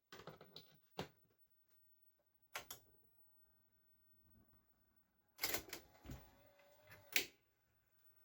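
Mechanical clicks and clunks from a VCR's controls and tape mechanism: a few sharp clicks at the start, another about two and a half seconds in, and a cluster of louder clunks in the last three seconds.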